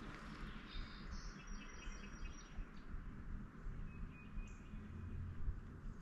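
Small birds chirping in short, high calls, a run of them in the first half and a few more near the end, over faint low background noise.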